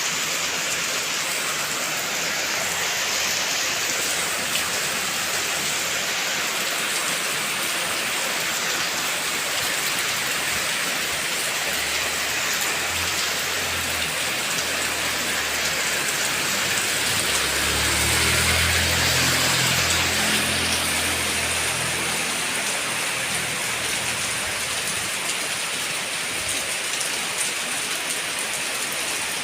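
Heavy rain falling steadily. A low rumble builds up around the middle and fades away several seconds later.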